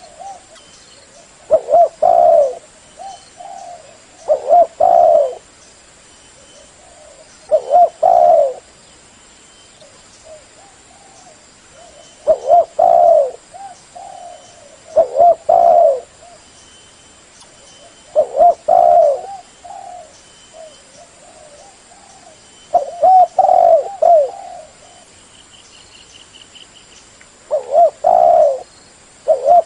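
Spotted dove (terkukur) singing its cooing song: loud, low coo phrases repeated about every three seconds, with softer coos between them.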